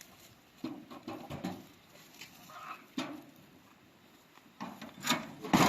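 Chickens clucking in short separate bursts, with a louder sudden sound near the end.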